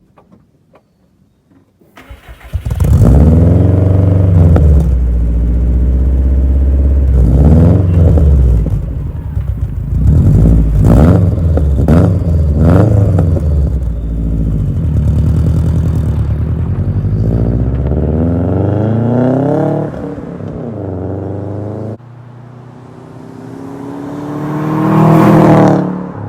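Saab 9-2X Aero's turbocharged flat-four running through an HKS downpipe and SPT catback exhaust. It starts up about two seconds in, then is revved in a series of throttle blips, with a last long rev near the end. The exhaust note is loud.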